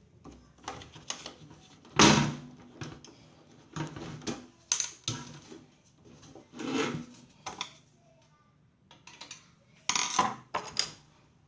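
Scattered clicks, knocks and clatters of hard objects being handled. The loudest knock comes about two seconds in, and a quick cluster of clicks follows about ten seconds in.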